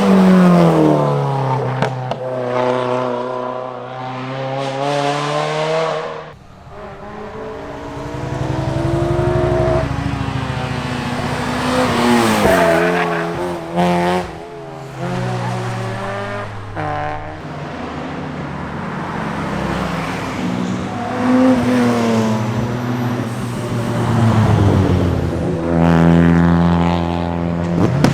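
Several performance cars driving hard past one after another, engines revving up and falling back as each one passes.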